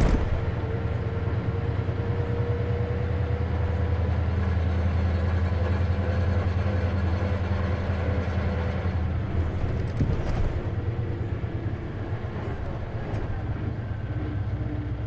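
Inside an Isuzu KC-LV380N manual-transmission city bus under way: a steady diesel engine drone with a thin whine that slowly rises in pitch, then a short knock about ten seconds in as the engine note drops, and a lower whine near the end. The bus has an abnormal running noise, which the uploader thinks may be a symptom that manual-transmission buses can develop.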